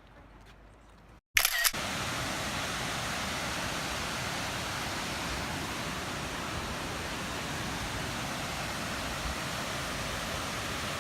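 A short sharp burst about a second and a half in, then steady, even rushing water from a stream or waterfall close to the microphone.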